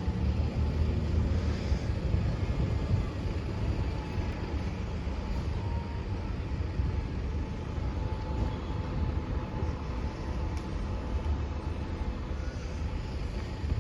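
A train passing over the level crossing, heard as a steady low rumble.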